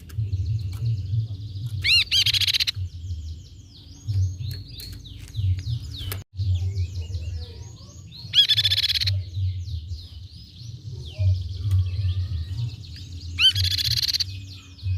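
Grey-cheeked tit-babbler (tepus pipi perak) calling: three loud, rapid trilled bursts about six seconds apart, over continuous fainter high chirps.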